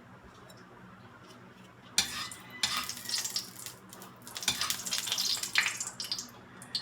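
A metal cooking utensil and pan clattering and scraping against each other as oil is heated in the pan. It starts suddenly about two seconds in and goes on unevenly for about four seconds.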